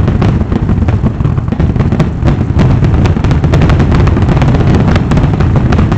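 Fireworks going off in a rapid, continuous barrage: many overlapping booms and sharp cracks over a steady low rumble.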